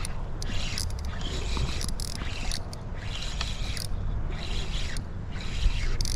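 Fishing reel cranked in short bursts, each a half-second whir repeating about once a second, as a lure is worked back in. Wind rumbles on the microphone underneath.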